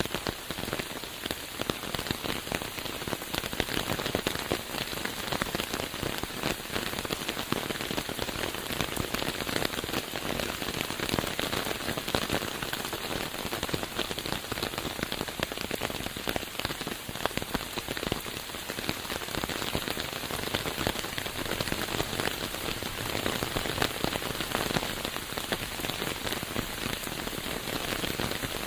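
Steady rain falling, a dense patter of many small drops at an even level.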